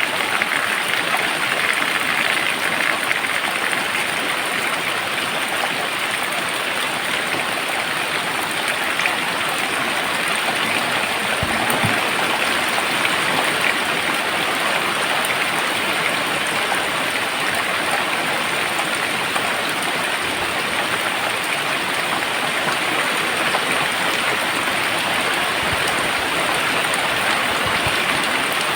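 Very heavy rain pouring steadily, a dense, even hiss of water that does not let up.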